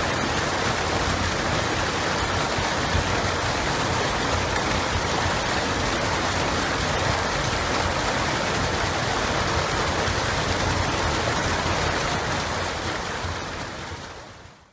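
Running water of a river or stream: a steady, even rush that fades out near the end.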